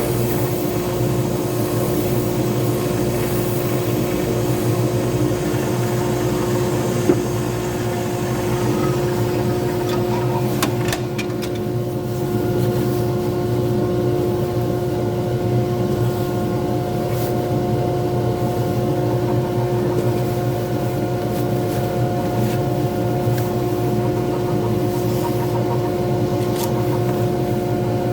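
Pen-turning lathe running with a steady motor hum. A higher hiss over it eases off about eleven seconds in.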